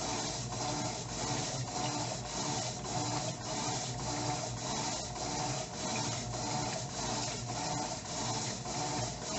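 Electrolux Turbo Economia LTE09 top-loading washing machine agitating in its main wash, the agitator turning back and forth in a steady repeating rhythm with motor hum and churning water and clothes.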